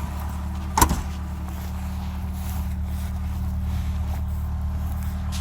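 1987 Ford Mustang LX engine idling steadily on a cold start after sitting for a while. A single sharp knock sounds about a second in.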